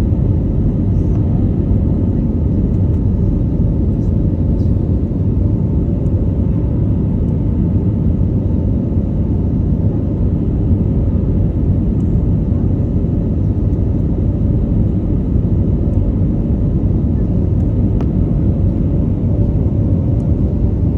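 Airplane engine noise: a steady, loud low rumble with faint steady hums above it, unchanging throughout.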